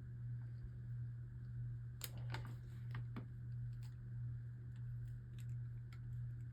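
A few small, sharp plastic clicks over a steady low hum: a Beyblade being handled and its driver switched into Slingshot mode. The clicks come in pairs about two and three seconds in.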